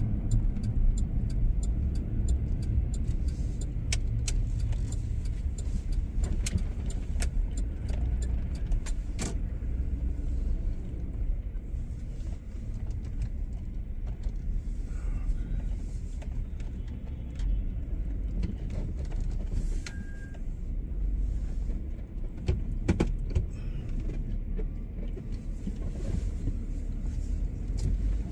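Steady low rumble of a car heard from inside the cabin, with scattered light ticks and clicks throughout.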